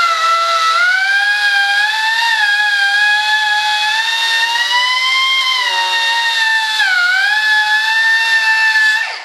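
A small high-speed rotary power tool runs with a high whine. Its pitch wavers and sags as it takes load, dipping clearly near the end, and it cuts off just before the end.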